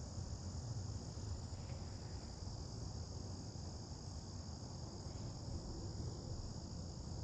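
Crickets chirring in a steady, unbroken high-pitched chorus, over a low rumble.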